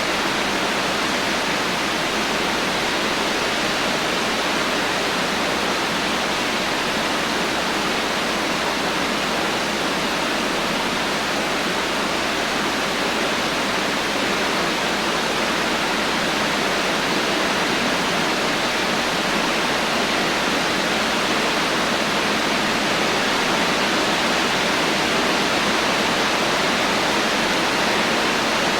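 Steady heavy rain: a dense, even hiss of falling rain with no thunder and no separate drops standing out.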